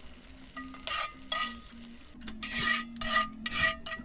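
A metal utensil scraping and stirring in a cooking pan, in about five short rasping strokes that come faster in the second half, over a light sizzle.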